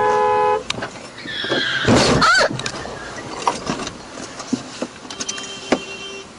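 A car horn sounding, which cuts off about half a second in. About two seconds in comes a loud, short squeal that glides in pitch, and near the end a fainter horn sounds for about a second.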